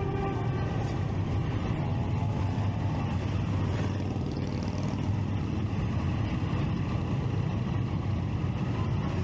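Motorcycle engine running steadily under way, a dense low drone with no breaks.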